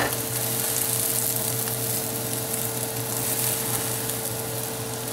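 Folded egg omelette sizzling steadily in butter in a steel frying pan, over a steady low hum.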